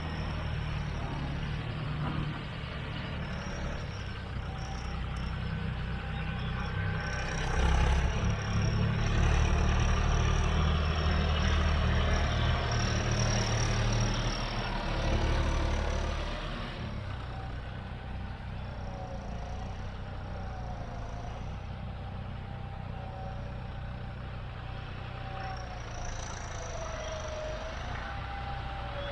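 John Deere 5310 tractor's turbocharged three-cylinder diesel running with a high, steady turbo whistle over the engine note. It grows louder about seven seconds in. About seventeen seconds in the engine drops back to a quieter, lower note and the whistle fades.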